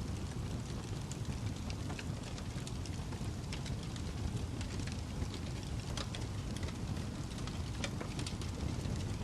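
Wood fire crackling in a fireplace: a steady low rumble with irregular sharp pops and snaps scattered through it.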